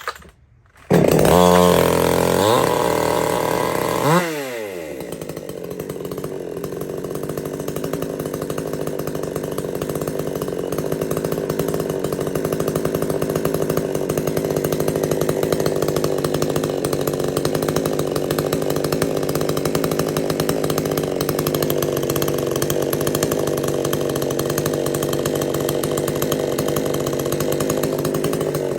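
Supmix 54cc two-stroke clone chainsaw starting from cold after about two months unused, with no primer. It catches about a second in and runs at high revs, drops sharply back near four seconds in, then idles steadily.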